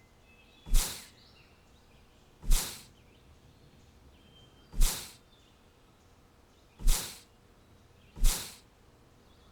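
A short, sharp swish repeated five times, roughly every two seconds, each one fading quickly, with faint high bird chirps in between.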